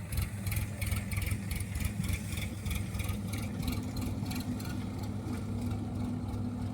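A JCB machine's engine running steadily, with a rhythmic ticking about four times a second that fades out about four seconds in.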